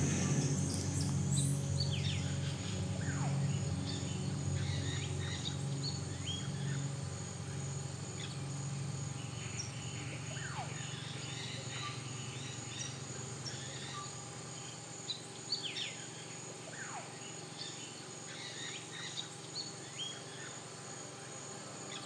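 Rainforest ambience: a steady high insect drone with birds calling, including several falling whistled calls. A low hum fades out over the first half.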